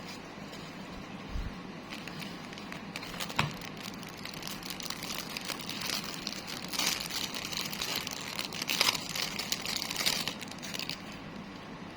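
Plastic packaging crinkling and rustling as it is handled during an unboxing, with scattered small clicks; the crinkling is busiest in the second half.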